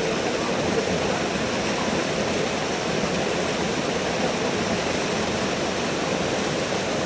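Waterfall rushing: a steady, even roar of falling water with no let-up.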